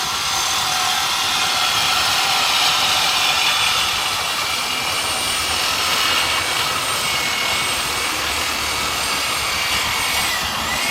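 Power cutting tool whining steadily as it cuts through the exhaust pipe to take off the muffler. Its pitch dips and recovers near the end.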